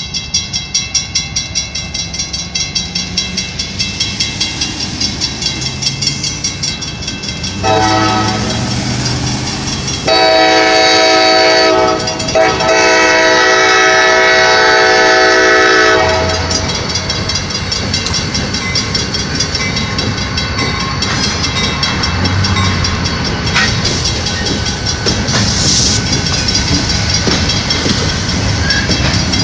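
Railroad crossing signal bell ringing at about two strokes a second as a freight train approaches; the locomotive's horn sounds from about eight seconds in, a shorter blast and then a long one broken briefly, ending around sixteen seconds in. The train then rolls through the crossing with steady wheel-on-rail rumble and clatter.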